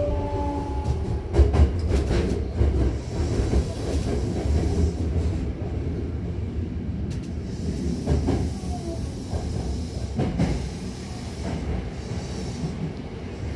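Hankyu electric commuter train heard from inside the car: a steady low rumble of wheels and running gear, with a few sharp clacks from the rail joints, as the train runs into Sone station.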